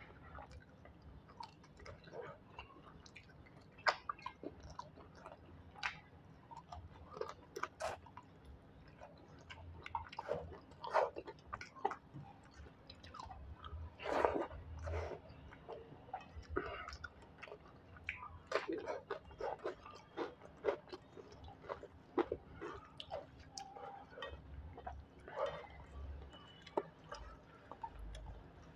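Close-up chewing of rice and fish curry: irregular wet mouth smacks and clicks as the food is chewed, open-mouthed.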